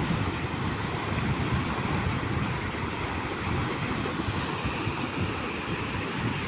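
Water pouring over a canal waterfall: a steady, low rushing rumble.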